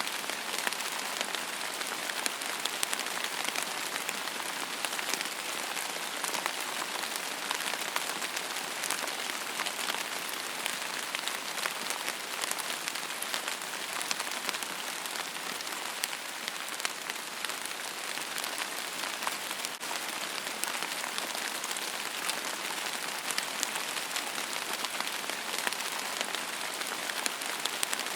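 Steady rain falling on a surface: an even hiss with many close individual drop ticks, no thunder.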